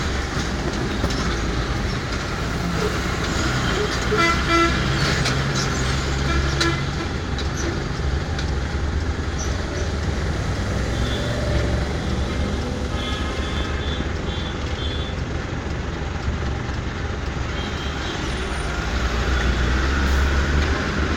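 A heavy vehicle's engine runs steadily in road traffic. Short horn honks come about four seconds in and again near six seconds, and higher-pitched horn toots repeat a few times around the middle.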